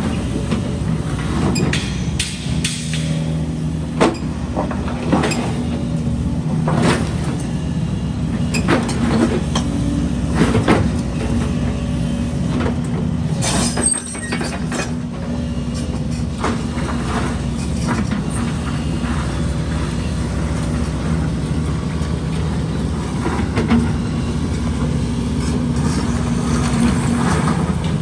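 Diesel excavator engine running steadily under load, with repeated knocks and clanks of concrete rubble against the bucket and other debris.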